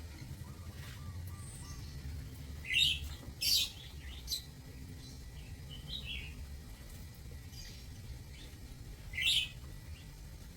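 Lovebirds chirping in an aviary, a few short, shrill calls: two close together about three seconds in and another loud one near the end, over a low steady hum.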